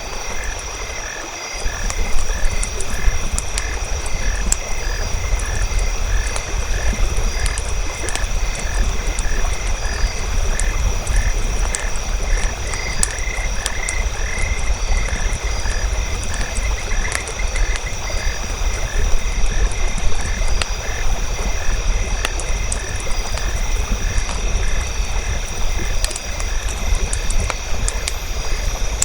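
Frogs croaking in a steady, even rhythm of about two calls a second over a campfire crackling with scattered sharp pops and a low rumble.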